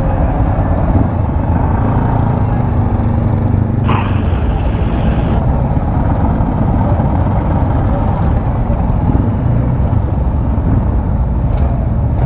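Motorcycle riding at road speed: steady, loud wind noise on the helmet microphone over the drone of the engine. A brief higher sound comes about four seconds in.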